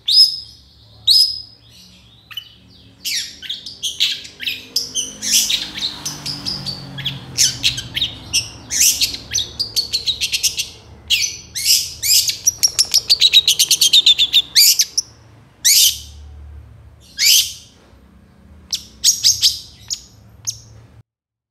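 Long-tailed shrike (cendet) singing a loud, varied song of short, sharp calls and scratchy notes, with a fast run of rapid repeated notes in the middle. The song breaks off abruptly near the end.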